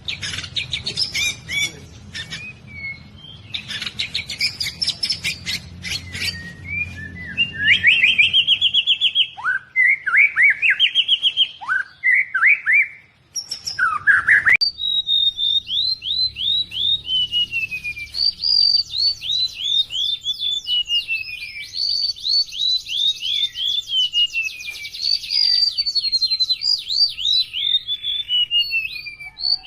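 Songbirds singing. The first part has sharp chirps and clicks, then loud rich whistled phrases that slide in pitch. About halfway in the sound changes abruptly to a long run of quick whistled notes, several a second, each sliding down in pitch.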